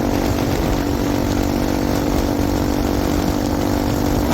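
Bajaj Pulsar NS200's single-cylinder engine running at a steady cruising speed through an aftermarket exhaust, holding one pitch, with wind rumbling on the microphone.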